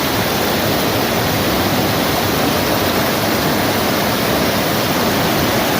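Waterfall: a steady, loud rush of falling water with no pauses.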